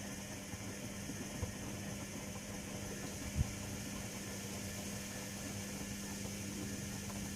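Privileg Sensation 9245 washing machine running with a steady mechanical hum, with one short thump about halfway through.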